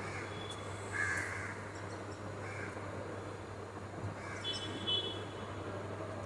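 Birds outside the train give several short, crow-like calls. Beneath them runs the steady low rumble of the moving train, and a brief high whistling tone comes about four and a half seconds in.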